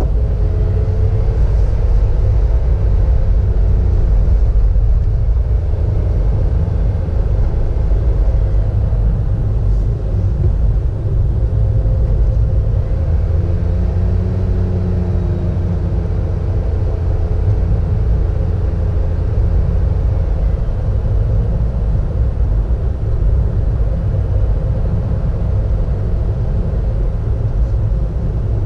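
A car driving along a road, heard from the camera inside the car: a steady low rumble of engine and tyre noise, with faint engine tones that rise and fall as the speed changes.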